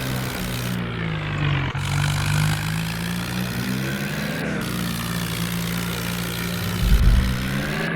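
Tractor engine running under throttle, its pitch rising and falling slowly as it is revved, with a couple of low thuds near the end.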